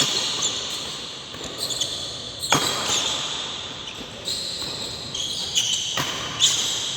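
Badminton rally: rackets striking the shuttlecock with sharp cracks about two and a half and six seconds in, and shoes squeaking on the court floor in between.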